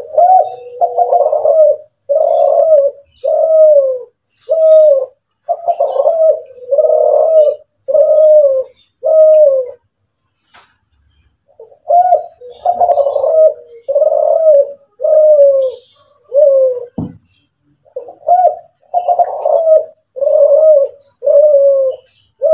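Kelantan derkuku dove cooing in its song (manggung): a long series of repeated coos, about one every second or less, broken by two short pauses.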